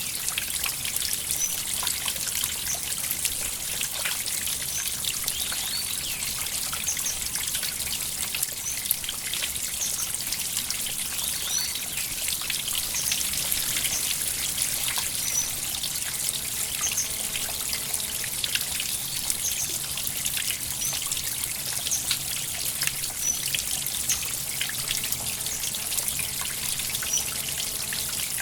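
Water trickling in a small stream, a steady high splashing with many small drips and ticks.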